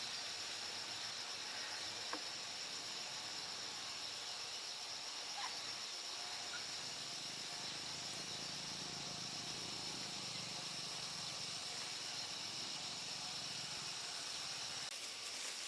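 Steady high-pitched hiss of rural outdoor ambience, with a couple of faint clicks.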